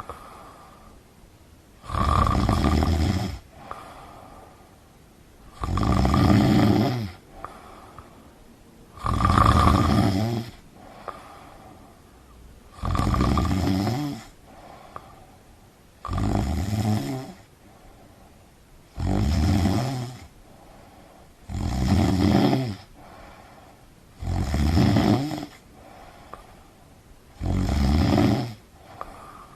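Snoring: nine loud snores in a steady rhythm, about three seconds apart, each lasting a little over a second, with quiet gaps between.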